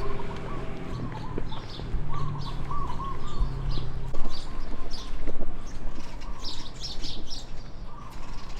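Several birds chirping and calling, short high chirps mixed with lower warbling calls. A low steady hum underneath stops about four seconds in.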